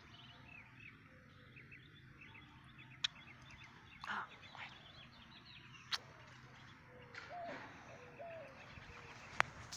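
A goose's soft low calls, a few short notes near the end, over faint high chirping of small birds throughout, with a few sharp clicks and one louder rustle about four seconds in.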